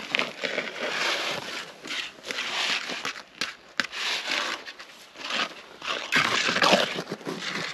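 Gritty scraping and crunching strokes of a tool working concrete mix or gravel, repeated irregularly about once or twice a second.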